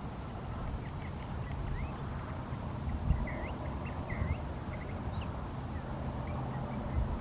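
Small birds giving scattered short chirps and a few quick rising and falling whistled notes, most of them between about three and four and a half seconds in, over a steady low rumble.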